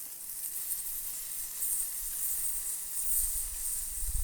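Sausages and meat sizzling on a Biji camp hotplate over a campfire, a steady high hiss. About three seconds in, a low rumble of wind on the microphone comes in.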